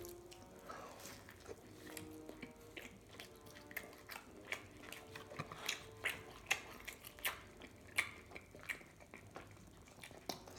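A person chewing a bite of sandwich close to the microphone: soft, irregular mouth clicks and smacks, several a second.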